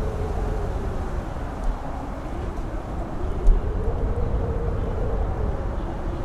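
Strong wind on a mountain top, buffeting the microphone with a low rumble and occasional thumps, while a howling tone slowly rises and falls in pitch.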